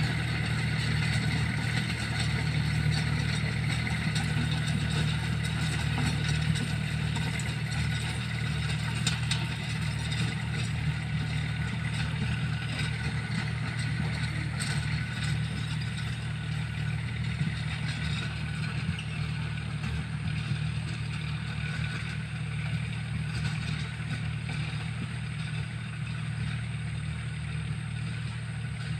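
John Deere tractor's diesel engine running steadily while working a rotavator, with light scattered clatter in the middle of the stretch.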